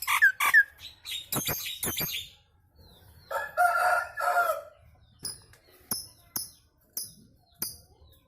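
Nias hill myna and other birds calling: sharp calls and clicks, then a drawn-out, crowing-like cry about three and a half seconds in, followed by a string of short high chirps about every half second.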